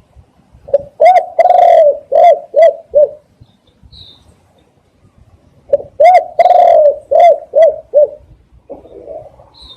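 Spotted dove cooing: two phrases a few seconds apart, each of about six low coos with a long drawn-out note near the start. A few faint high chirps come in the gaps.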